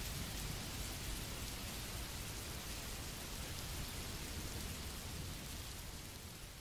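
Steady rain, fading out gradually near the end.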